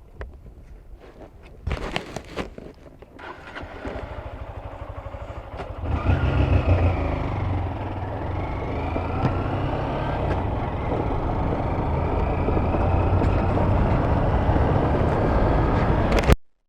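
Motorcycle engine: a few clicks and knocks, then the engine ticking over. About six seconds in it picks up and runs steadily under way with wind rush, and the sound cuts off abruptly near the end.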